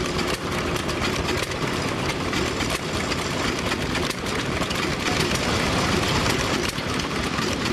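Old engine-driven machinery running steadily, with a dense, irregular clatter of knocks over the engine noise.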